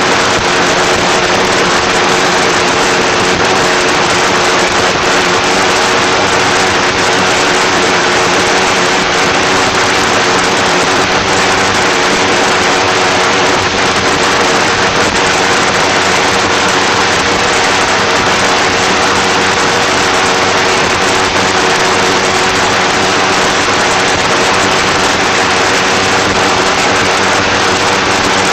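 Homemade pulsejet engine running steadily, very loud, with an unchanging pitch.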